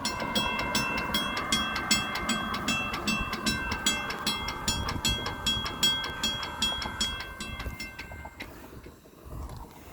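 Railroad crossing bell ringing with rapid, evenly repeated strokes, stopping about eight seconds in.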